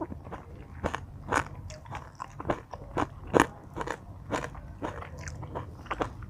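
A person chewing crunchy green papaya salad and raw vegetables close to the microphone: irregular wet crunches, one or two a second, the loudest about three and a half seconds in.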